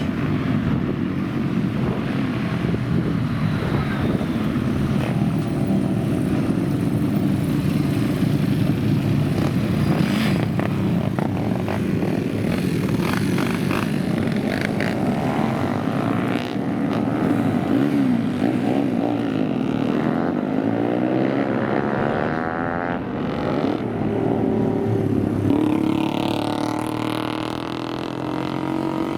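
Old motorcycle engines running and being revved, the engine pitch rising and falling again and again, with several sweeps overlapping in the second half.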